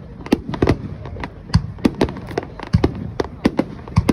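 Aerial fireworks bursting in rapid succession, a string of sharp bangs and crackles several times a second over a low rumble.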